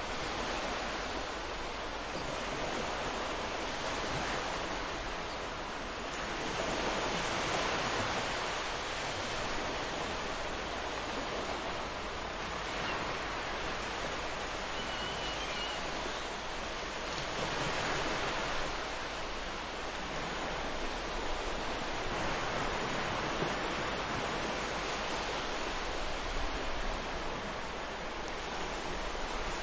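Sea waves breaking and washing onto a sandy beach, a steady surf rush that swells and eases every few seconds.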